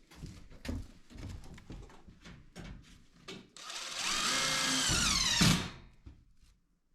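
A few knocks and handling clicks, then a power drill runs for about two seconds, its pitch rising just before it stops.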